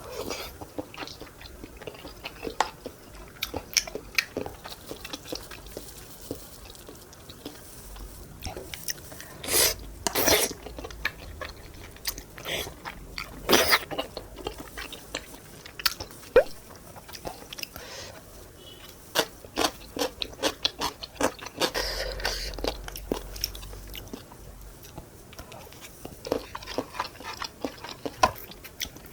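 Close-miked mukbang eating sounds: a person chewing and biting spicy tteokbokki (chewy rice cakes, fish cake and glass noodles), with many wet smacks and clicks and a few louder bursts of mouth noise partway through.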